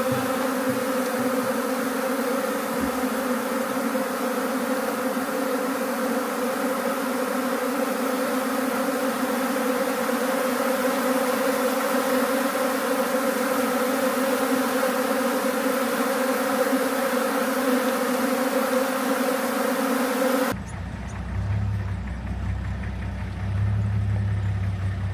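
Steady, loud buzzing of a bee swarm: a dense drone of many wings with no break. About 20 seconds in, it cuts abruptly to the low, steady rumble of a vehicle engine.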